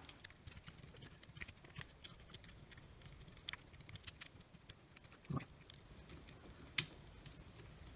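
Faint, scattered clicks and light taps from handling the rotary tool's plastic case and switch parts while they are fitted together, with a slightly louder knock about five seconds in.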